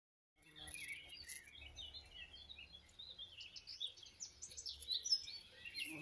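Songbirds chirping and singing, a dense run of short, quick high calls that overlap one another, starting about half a second in.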